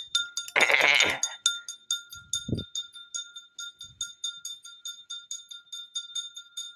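Wobbling cheap ceiling fan running, ticking with a metallic ring about three to four times a second. A loud brief rustling burst about a second in.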